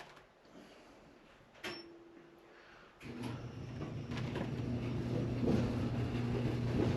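A clothes dryer being started: a click with a short tone about two seconds in, then the motor and drum start about a second later and run with a steady hum and rumble.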